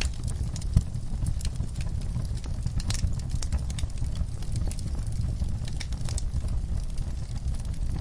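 Wood fire burning in a fireplace: a steady low rumble of the flames with scattered crackles and pops, one sharper pop about a second in.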